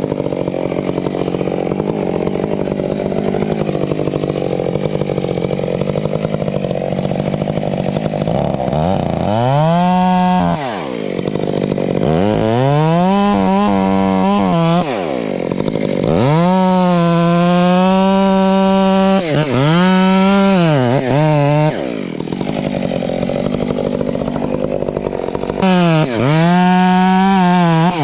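Two-stroke chainsaw running. For the first several seconds it holds a steadier, lower note. From about a third of the way in it is repeatedly throttled up to a high, held whine and let back down, the pitch rising and falling several times, as in cutting wood.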